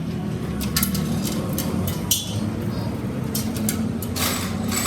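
A machine motor running with a steady low hum, with intermittent metal clinks and knocks; the sharpest knock comes about two seconds in.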